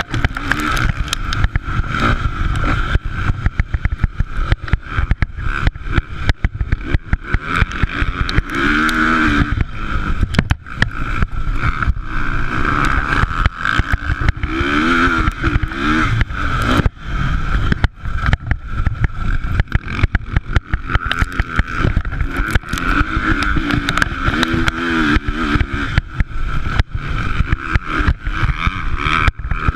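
Motocross bikes racing on a dirt track, their engines revving up and falling off again several times, under dense rough crackling noise.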